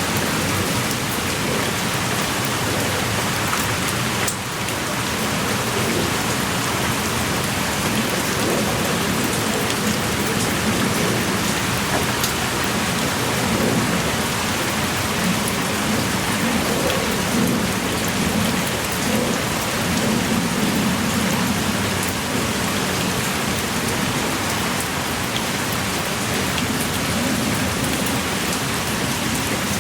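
Heavy rain pouring steadily, with single drops striking close by as faint scattered ticks.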